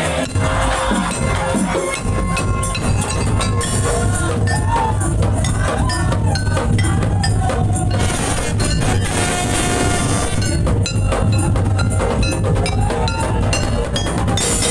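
Madurese daul ensemble playing: steady drums with wood-block and clinking metal percussion, and a melody line over them.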